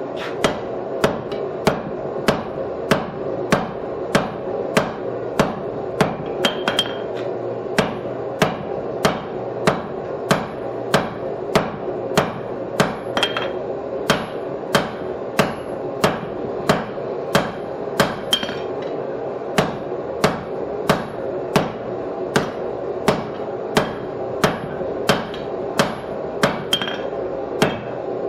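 Hammer blows on hot steel bar stock at the anvil, forging a bottom fuller: even, ringing strikes at about two a second, over a steady background hum.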